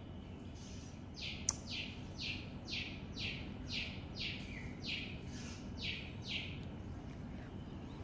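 A bird calls a fast series of about eleven short, harsh notes, each sliding downward in pitch, about two a second. A single sharp click comes about one and a half seconds in.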